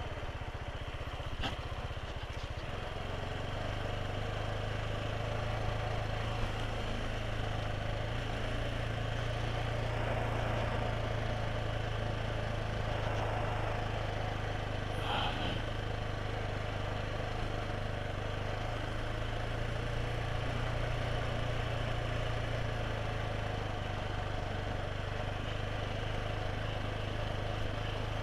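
Motorcycle engine running at a steady pace under way, a constant hum with wind and road noise over it. A brief high chirp sounds about fifteen seconds in.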